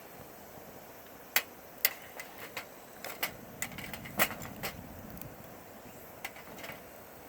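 Wood campfire crackling: sharp, irregular pops and snaps, a dozen or so over several seconds, with the loudest in the first half.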